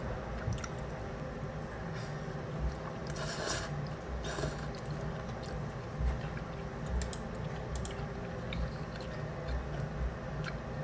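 A person chewing chewy rice cakes and noodles up close, with small wet mouth clicks and two short rushes of noise about three and four seconds in.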